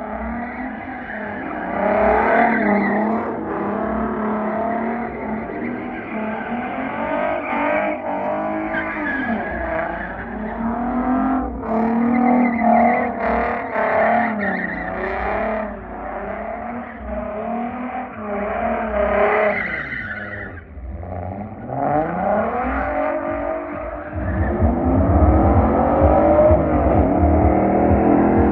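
A car engine revving hard, rising and falling in pitch again and again, with tire squeal as the car is drifted. About two-thirds of the way through, the revs drop briefly and then climb again. The last few seconds carry a heavier low rumble.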